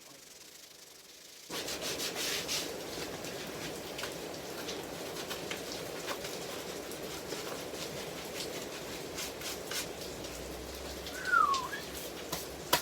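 Coarse P80 sandpaper rubbed along the grain of a willow cricket bat's face, starting about a second and a half in and going on steadily as a scratchy rubbing. A short falling chirp cuts through near the end.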